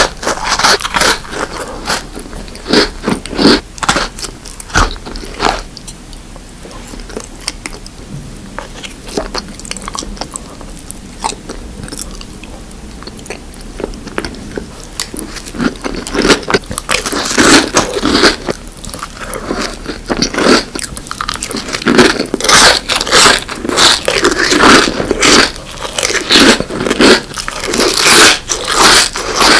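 Close-miked eating sounds of a person biting into and chewing crunchy sweet food: sharp crunches and crackles, sparser and quieter for a stretch in the middle, then thick, loud crunching from about halfway.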